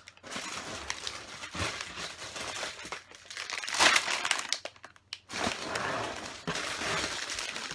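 Plastic bags of LEGO pieces crinkling and rustling as they are handled and lifted out of the set's box, with the loudest rustle about four seconds in.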